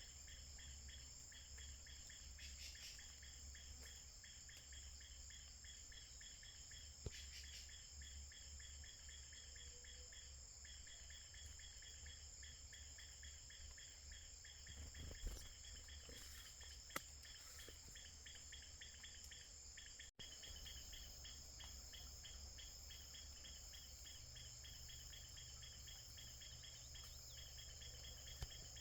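Faint, steady chorus of crickets or other insects trilling, with a pulsing layer beneath the high continuous tone. A few brief clicks sound around a quarter, half and near the end.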